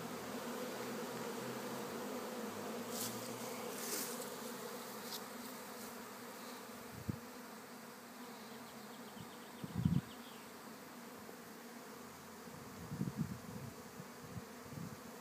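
A swarm of honey bees buzzing in a steady hum, fuller in the first half and thinning later. A few soft low thumps come through in the second half.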